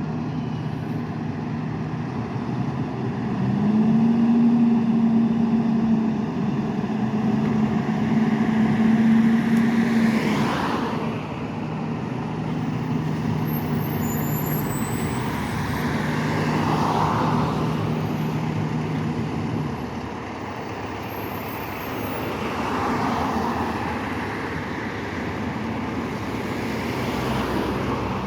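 Fire engine's engine running as it drives off, a steady low drone that steps up in pitch about three and a half seconds in and drops back around ten seconds, then fades.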